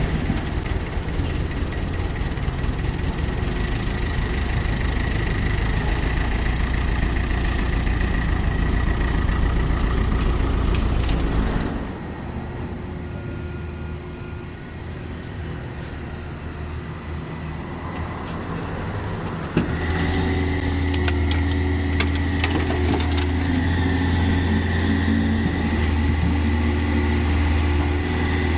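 Diesel engine and hydraulics of a CAT 305.5E2 mini excavator working, with a steady whine over the engine. The engine drops back about twelve seconds in, then after a sharp knock about twenty seconds in it runs loud and steady again.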